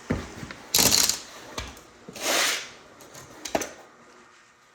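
Tools and small metal hardware being handled: a few clicks and knocks, with a loud clattering rattle about a second in.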